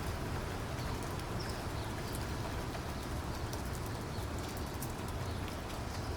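Steady rain falling, with individual drops ticking sharply close by over an even hiss and a low rumble underneath.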